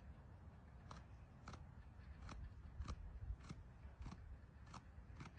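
Deer chewing crunchy food, faint sharp crunches coming evenly about every half second to two-thirds of a second, over a low rumble.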